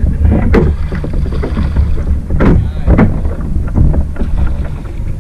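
Wind rumbling on the microphone of a kayak on the water, with two brief sharp sounds about half a second and two and a half seconds in.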